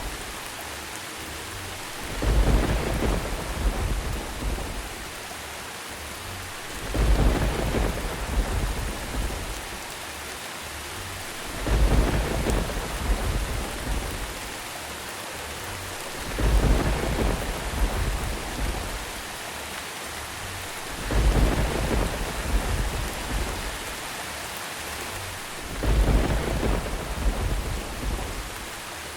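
Steady rain with thunder rumbling six times, evenly spaced about every five seconds, each rumble deep and lasting a couple of seconds.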